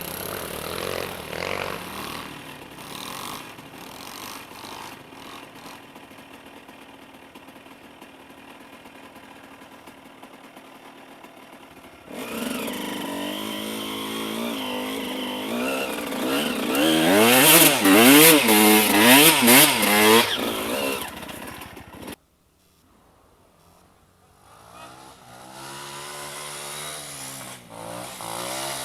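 Enduro motorcycle engine running, with a stretch of quick repeated revving that rises and falls about two-thirds of the way through. The sound breaks off suddenly soon after, and the engine comes back a couple of seconds later, revving up and down.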